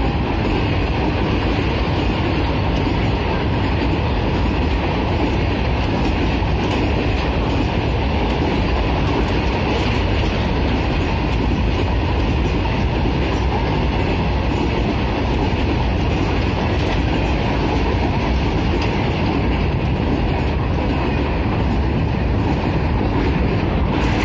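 Freight train of covered goods wagons passing close by at speed: a loud, steady rush and rumble of wheels on rail that stays even throughout.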